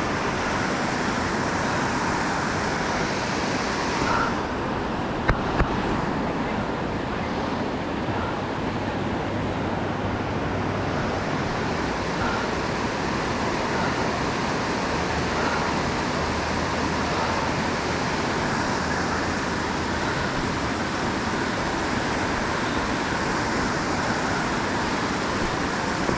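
Steady rush of water tumbling over rocks in a boulder-strewn stream or river rapids, with two sharp clicks about five seconds in.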